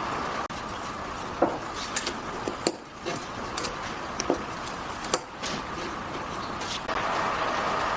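Pieces of wood being handled and set down: scattered short knocks and clicks over a steady hum that drops out about half a second in and returns near the end.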